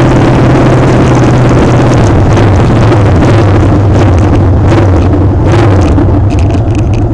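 Motorcycle engine running steadily at speed, with a constant low engine note under a loud rush of noise. Near the end the sound eases off and begins to pulse as the engine comes off the throttle.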